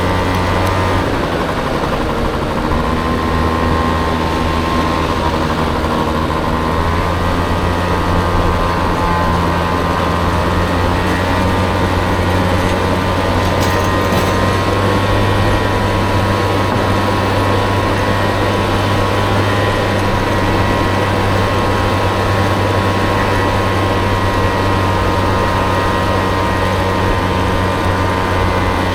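Engine of a Honda Motocompo mini-scooter fitted with a Honda Dio scooter engine, running steadily under way with a continuous hum, its pitch shifting slightly a couple of times, over road and wind noise.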